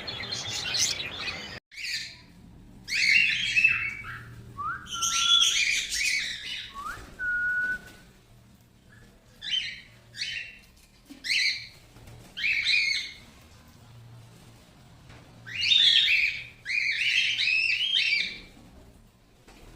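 Caged parrot-type pet birds calling in short, repeated bursts of chirps and squawks. Twice, a single whistle sweeps up and then holds one steady note.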